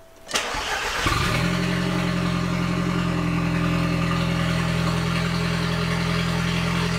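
Audi TT's 1.8T turbocharged four-cylinder engine cranking briefly and catching about a second in, then settling into a steady idle, heard from inside the cabin. It is the engine's first start after a new timing belt, water pump and tensioners.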